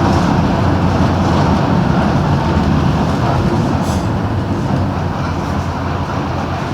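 Mercedes-Benz OM-366LA turbo-diesel engine of a Busscar Urbanus S city bus on an OF-1721 chassis, running steadily under way and easing off slightly in the second half, with a brief rattle about four seconds in.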